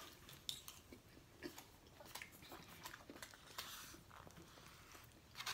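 Faint chewing and wet mouth sounds of people eating soft food, with irregular small clicks scattered throughout.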